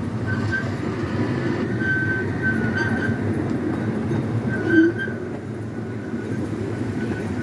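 Scenic railway ride train rolling along its track with a steady low rumble, its wheels squealing on and off in a high thin tone. A short, louder sound stands out about five seconds in.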